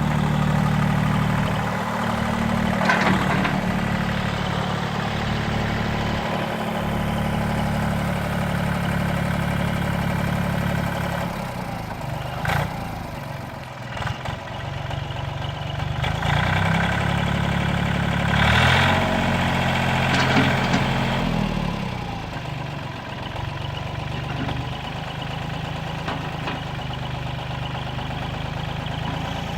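Iseki TU175 compact tractor's engine running steadily. Its note drops off about eleven seconds in and comes back up a few seconds later, with a few short knocks along the way.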